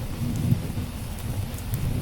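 Steady rain with a low, rolling rumble of distant thunder underneath.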